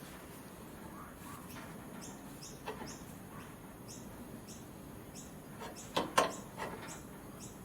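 A small bird chirps in the background, short high falling chirps about twice a second. A few sharp knocks of hand work cut through, the loudest a pair about six seconds in.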